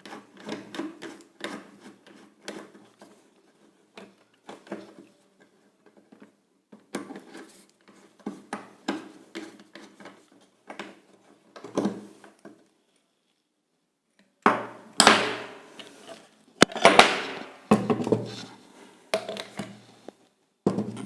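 Hand tools working the screws and metal parts of an old washing-machine motor being taken apart: a string of small clicks and scrapes, then, after a short pause, louder clattering of metal parts in the last few seconds.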